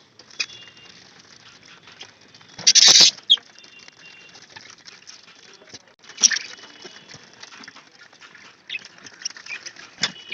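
Budgerigars chirping softly while moving about and pecking in their cages. A loud rustling burst comes about three seconds in, and sharp clicks come later.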